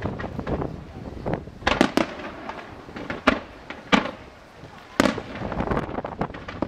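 Aerial fireworks bursting: a series of sharp bangs about a second apart, with smaller crackling pops between them.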